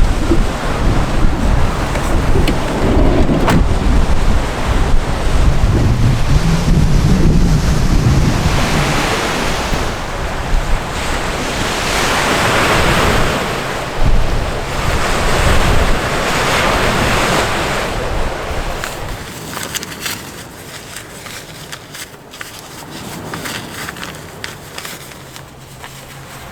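Strong wind buffeting the microphone over sea waves washing onto the shore, the surf swelling and falling every few seconds. About two-thirds of the way through the wind rumble drops away, leaving a much quieter hiss.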